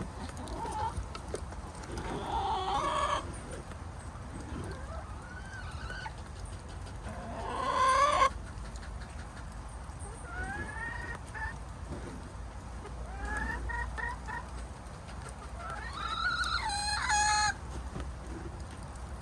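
Chickens clucking and calling, several separate calls a few seconds apart. The loudest is a long rising call about eight seconds in.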